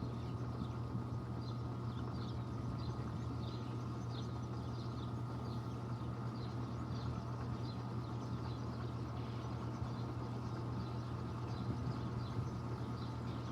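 Panasonic washing machine running in its spin cycle with a steady motor hum. A faint high chirp repeats about twice a second over it.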